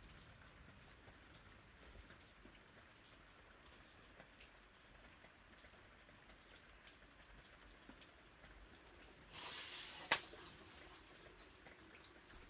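Faint patter of light rain, with scattered soft ticks. About nine seconds in comes a brief swish, ending in a single sharp click.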